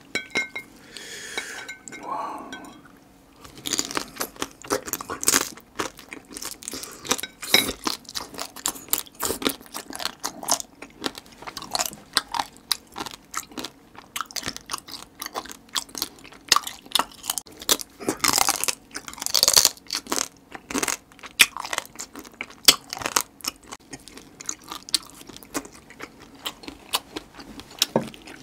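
Close-up chewing and crunching of spicy marinated raw crab (yangnyeom gejang). After about three seconds it becomes a dense, irregular run of wet crunches and crackles.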